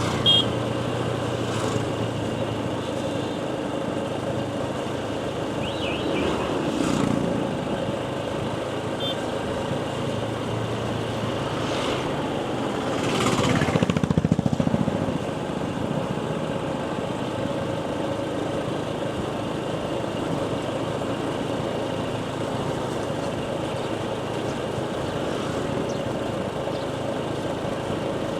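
Motorcycle engine running steadily while riding, with wind noise. A short high-pitched beep sounds just after the start, and another vehicle passes loudly about halfway through.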